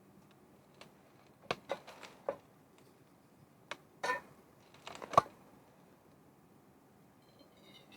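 A handful of light, separate knocks and clicks of objects being handled, with pauses between; the last, about five seconds in, is the sharpest.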